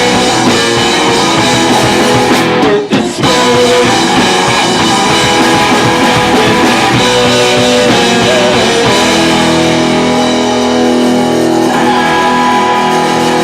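Rock band playing live, with electric guitars and a drum kit, loud and steady, with a brief break in the sound about three seconds in.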